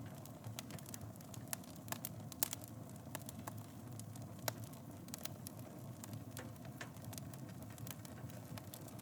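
Wood fire burning in a fireplace: irregular crackles and pops over a steady low rumble of flames, with a sharper pop a little past two seconds in and another halfway through.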